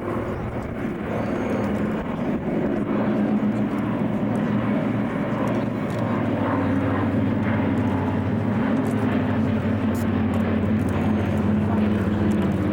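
Radial piston engines of a vintage propeller airliner running at power, growing louder over the first few seconds and then holding a steady drone.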